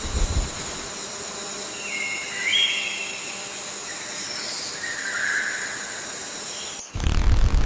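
Rainforest ambience: a steady high insect drone with a few short bird chirps in the middle, then a loud rushing burst of noise with a low rumble near the end.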